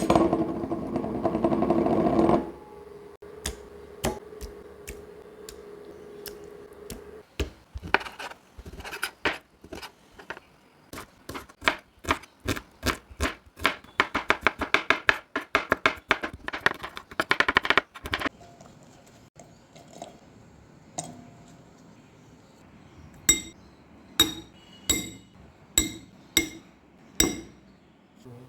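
Kitchen food prep: a long run of quick, sharp knocks like chopping on a board, then a quieter stretch and a series of slower, evenly spaced knocks with a slight ringing edge.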